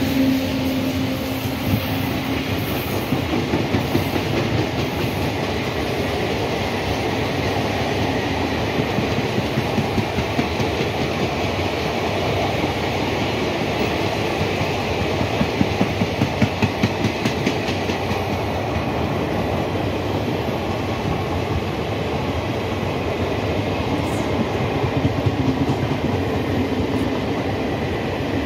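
Kalinga Utkal Express passenger coaches rolling past along the platform line: a steady, loud rumble of wheels on rail. At times it turns into a rhythmic clickety-clack of about four clacks a second as the wheel sets cross the rail joints.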